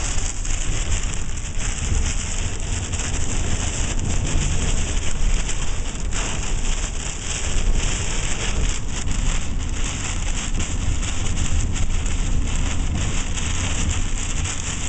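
Heavy rain beating on a vehicle in a severe thunderstorm, a steady dense hiss full of tiny drop impacts over a constant low rumble.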